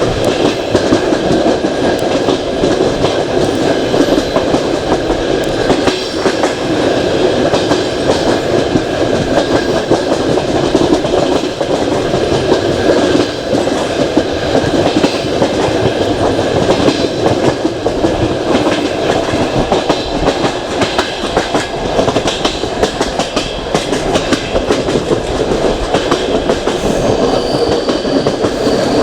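Passenger train running along the track: loud, steady wheel-and-rail rumble with the clickety-clack of the carriage wheels over rail joints, heard from an open carriage window. A faint high wheel squeal creeps in near the end.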